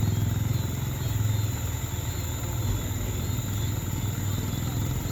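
Large truck's engine running steadily, a low rumble with a fast even pulse.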